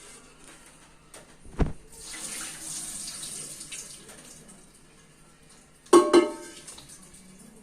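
Kitchen utensils at work while biryani is being layered in a pot. There is a dull thump, then about two seconds of hissing, water-like noise, then two sharp metallic clanks with a short ring about six seconds in.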